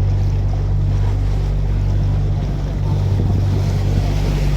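A canal tour boat's engine running steadily, a low, even drone, with wind and water noise over the microphone.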